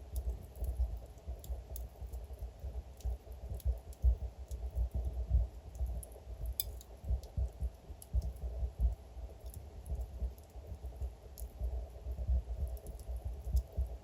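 Wood fire in a fireplace crackling, with irregular sharp pops and snaps over a dense low rumble of burning logs; one louder snap about six and a half seconds in.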